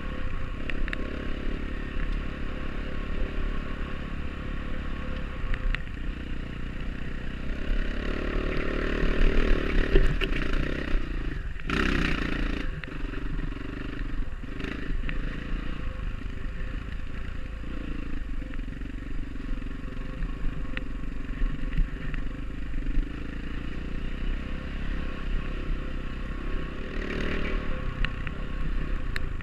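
Enduro dirt bike engine running under way on a trail, with rattling and clatter. It grows louder for a few seconds about a third of the way in, with a short loud burst of noise just after and a smaller swell near the end.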